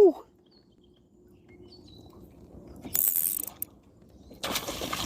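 Fishing reel clicking and whirring while a hooked bowfin is played from a kayak, with a short hissy burst about three seconds in and a louder rushing noise from about four and a half seconds in.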